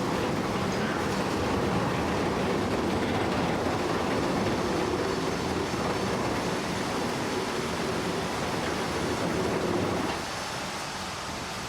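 Steady heavy-vehicle rumble, a dense running noise with a faint steady hum, dropping in level about ten seconds in.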